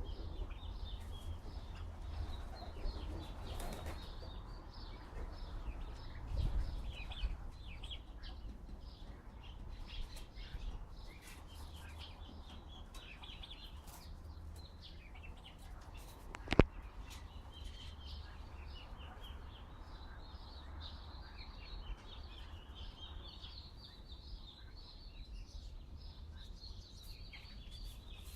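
Small birds chirping and twittering steadily, over a low wind rumble on the microphone. There is a single sharp click about sixteen seconds in.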